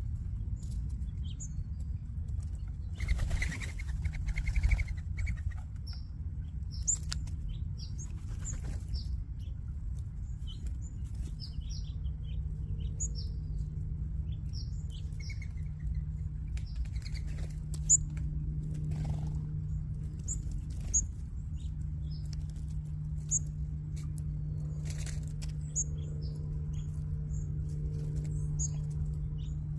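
A flock of small backyard birds at a feeder: many short, high chirps throughout, with whirring bursts of wingbeats as birds flush, about 3 and 8 seconds in and again near the end. A steady low hum runs underneath from about 4 seconds in.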